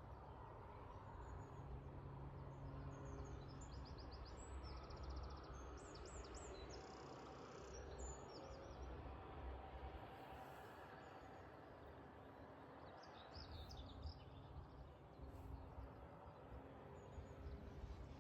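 Faint songbird chirping in quick runs of notes, two phrases about a second in and again about thirteen seconds in, over a low steady background rumble.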